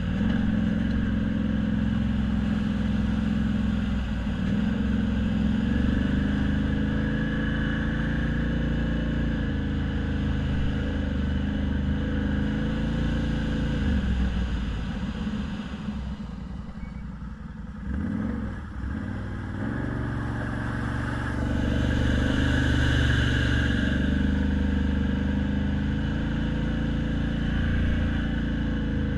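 Car engine running steadily. A little past halfway its pitch falls and the sound quiets for a few seconds, then it picks back up.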